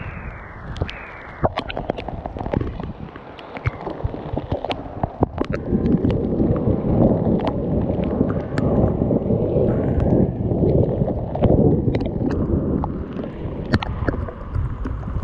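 Gusty wind buffeting the microphone, growing much louder about five and a half seconds in, with scattered sharp ticks of hailstones striking. Two short falling whistles sound near the start.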